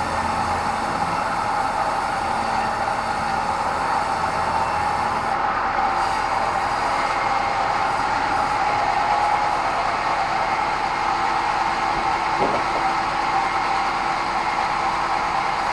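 Sawmill bandsaw running steadily while sawing meranti wood: a continuous, even drone with a steady high tone in it.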